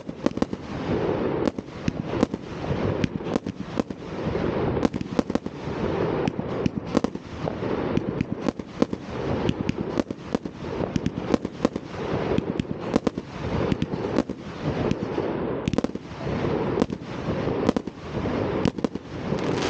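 New Year's Eve fireworks going off in a continuous barrage: dense sharp bangs and crackling over a steady rumble of many rockets and firecrackers at once.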